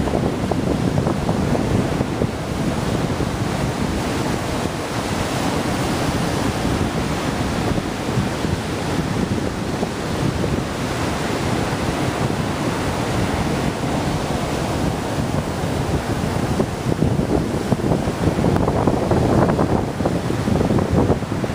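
Small ocean surf breaking and washing on a beach, with wind buffeting the microphone throughout.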